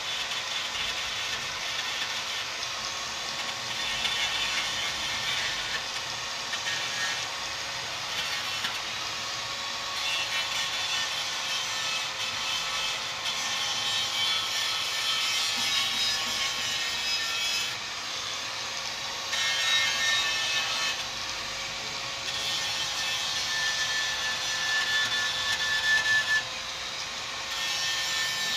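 Continuous rasping, abrasive scraping that rises and falls every few seconds, with a faint steady hum underneath: the fuel tank being sanded or scraped during repair.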